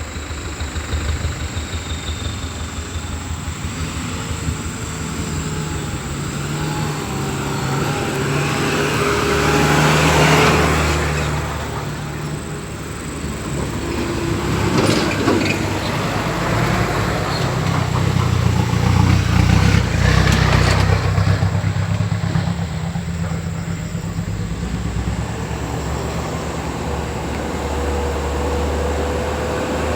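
Diesel engines of heavy road-construction machinery running with a steady low hum. The sound swells louder about ten seconds in, briefly around fifteen seconds, and again around twenty seconds.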